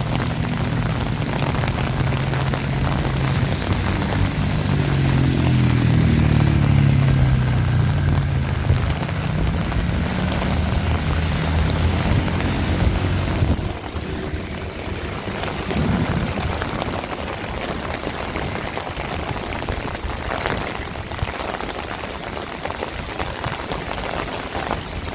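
Heavy rain falling steadily. Through the first half a low engine hum rises and falls in pitch, then stops abruptly about halfway through.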